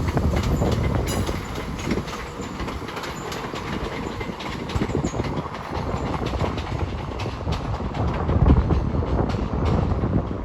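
Southern Class 171 Turbostar diesel multiple unit running slowly through the curve into the station, with a steady rumble and a run of wheel clicks over rail joints and points.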